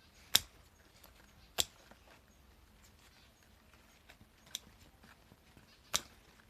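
Garden shears snipping at overgrown plants: four sharp, separate snips spread a second or more apart.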